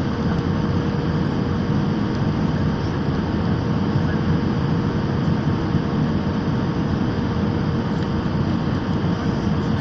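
Passenger airliner cabin noise: the steady rush of the jet engines and airflow, with a faint constant hum, during the descent to land.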